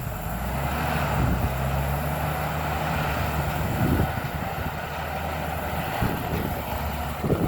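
Bulldozer's diesel engine running steadily while clearing brush, with a few brief low thumps.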